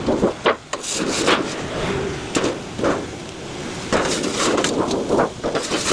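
Irregular knocking and clattering, several sharp knocks spread unevenly.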